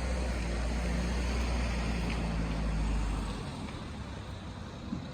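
Low engine rumble of a vehicle, strong for about the first three seconds with a faint steady hum above it, then dropping away.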